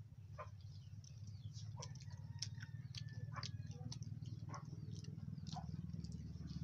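Close wet clicks and smacks of someone chewing a sticky, caramelised banana snack, with chickens and small birds calling in the background over a low steady hum.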